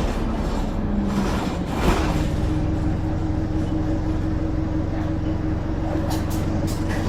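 Bus engine running, heard from inside the bus, with a brief rushing noise about two seconds in and then a steady drone at constant pitch.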